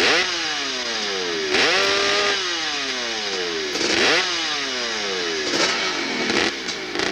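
Motorcycle engine revved hard about four times: each blip jumps up sharply and then falls slowly in pitch as the revs die away.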